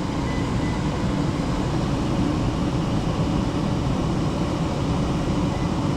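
Gas furnace running, with a steady rush of air from its ECM blower.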